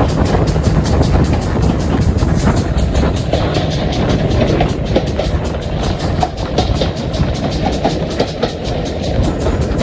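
Steam-hauled train running past, a loud steady rumble with a fast, even beat of wheel and exhaust noise.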